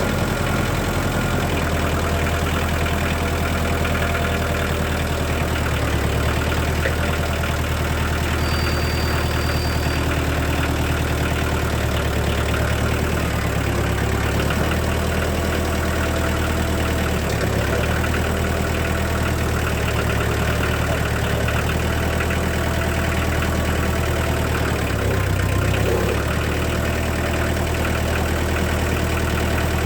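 Kubota tractor's diesel engine idling steadily while it warms up.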